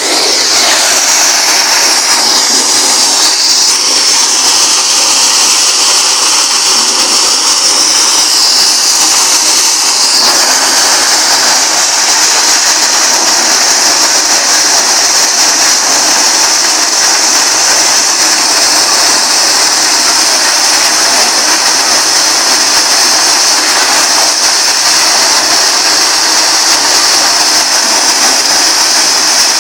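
Tractor-driven maize sheller running, a loud steady mechanical rush with a high hiss over it. It shifts a little during the first ten seconds, then holds even.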